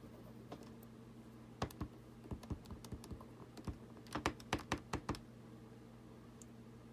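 Small wooden peg stamps clicking and tapping against the work surface and ink pad while letters are inked and stamped: a quick, irregular run of light clicks starting about a second and a half in and stopping around five seconds.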